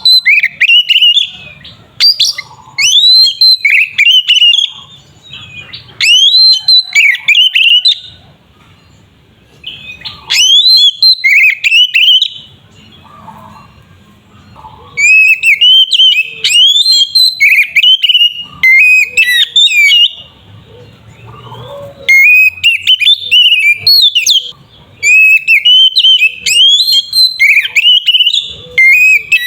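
Oriental magpie-robin (kacer) in full, vigorous song: loud bursts of rapid, varied whistled notes sweeping up and down. The phrases last a second or two up to about five seconds, with short pauses between them.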